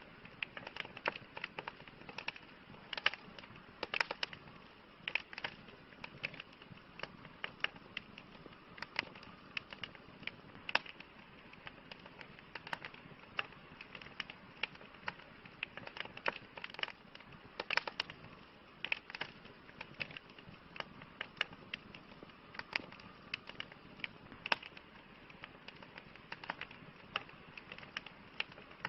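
Wood campfire crackling: irregular sharp pops and snaps, several a second, over a soft steady hiss.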